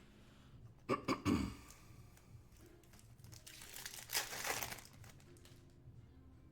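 Foil trading-card pack wrapper crinkling and tearing: a few quick rustles about a second in, then a longer crinkling tear around four seconds in.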